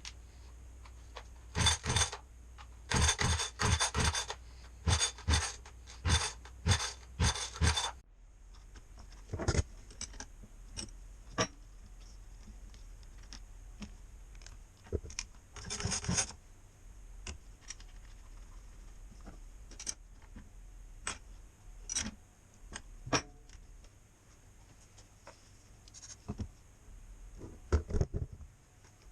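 Hand work on the chainsaw: irregular scraping, rubbing and clicking of parts being handled, with a quick run of scrapes in the first several seconds, then scattered single clicks.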